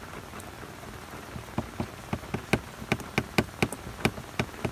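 Hurricane rain falling steadily, with heavy drops striking close by as sharp irregular ticks. The ticks come more often from about a second and a half in.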